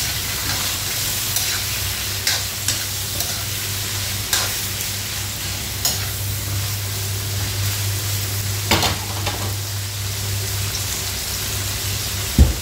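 Diced pork and onion frying in oil in a nonstick wok, sizzling steadily while a spatula stirs them, with scattered scrapes and clacks of the spatula against the pan. A steady low hum runs underneath, and two low thumps come near the end.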